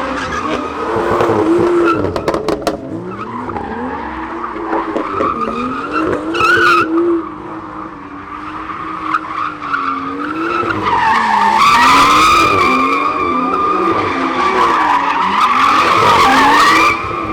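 Car tyres screeching in long, wavering squeals that rise and fall in pitch, loudest in the second half.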